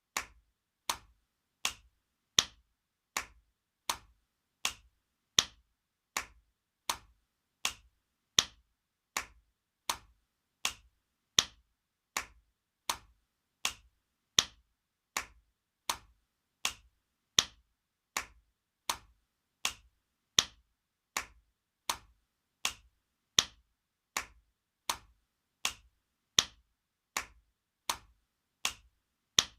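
Spanking sound effect: sharp hand slaps on skin repeating about every three-quarters of a second, every fourth slap louder than the rest.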